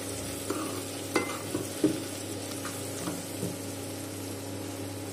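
Sliced onions and ground spices frying in hot oil in a metal kadhai, sizzling steadily while a spatula stirs them. The spatula scrapes and knocks against the pan a few times in the first two seconds, then the sizzling goes on more evenly.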